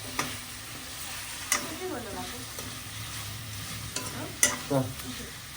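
Food sizzling as it fries in a hot pan, stirred with a spoon that knocks against the pan three times.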